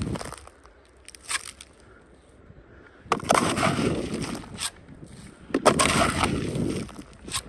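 Crunching and scraping of packed snow and ice: a short crunch, then two longer rough scrapes of a second or more each, and a brief crack near the end.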